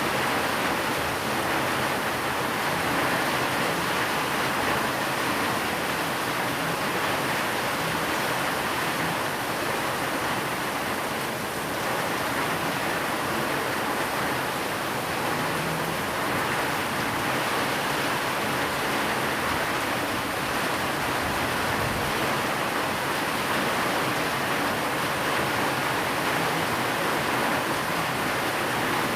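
Steady rain falling, blended with white noise: an even, unbroken hiss with no separate drops or thunder standing out.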